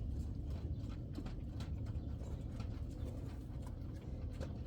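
Mini piglets panting in the heat, over a steady low rumble with faint scattered ticks.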